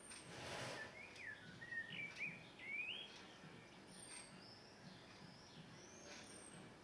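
Small songbirds chirping: a brief rush of noise in the first second, then a few short, wavering chirps, then fainter thin, high calls in the second half.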